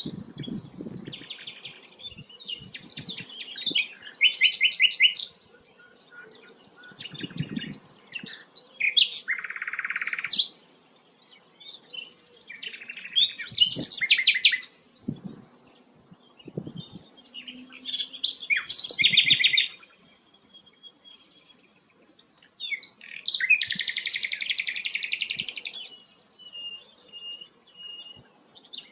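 Sikatan londo flycatcher singing a varied song of sharp chirps and fast trills in bursts a few seconds apart, with a longer rattling phrase about three-quarters of the way through and a few thin whistled notes near the end.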